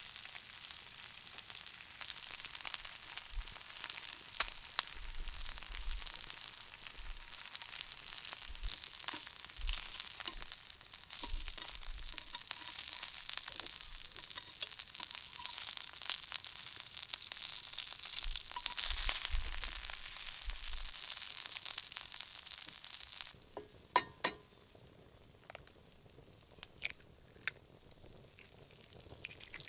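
Food frying on hot iron cookware over a campfire: a dense, crackling sizzle that cuts off suddenly about 23 seconds in. After that, only a few scattered clicks and pops remain.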